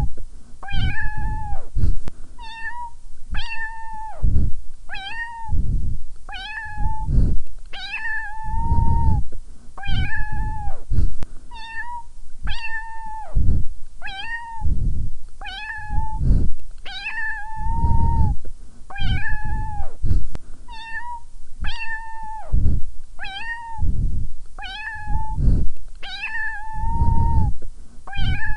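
Domestic cat meowing over and over, about one short meow a second in an even, repeating pattern. Each call holds one pitch and dips at its end, with a low thump under the louder ones.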